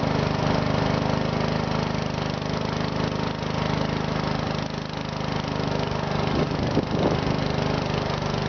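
Garden tractor's small engine running steadily.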